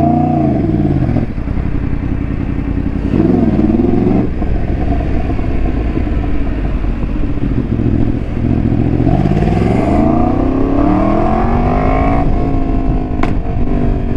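2017 Yamaha FZ-10's R1-derived inline-four engine, breathing through an aftermarket pipe with the catalytic converter removed, revving up in two short pulls and then one long rising pull near the end, over a steady rush of riding wind.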